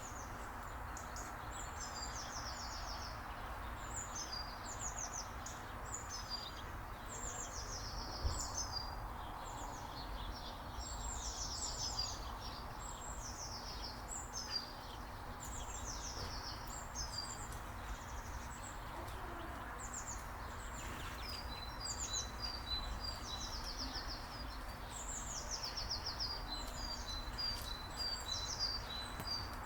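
Small songbirds singing and chirping: many short, high trilled phrases that fall in pitch, one after another, and from about two-thirds of the way in a rapid string of short, even notes. A steady low hum and rumble runs underneath.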